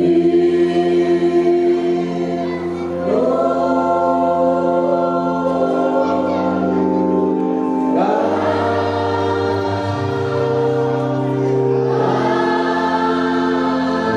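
Church choir singing a hymn in long held chords, moving to a new chord every few seconds.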